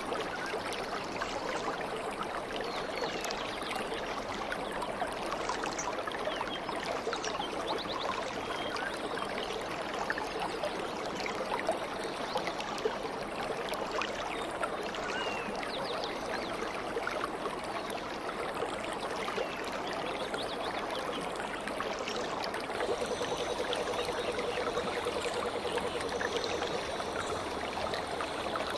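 A stream flowing and trickling steadily, with faint bird chirps over it and a bird repeating a short high call near the end.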